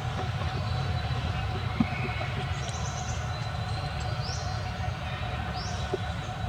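A steady low rumble like a running engine or distant traffic, with two short high chirps that rise in pitch, about a second apart, in the second half.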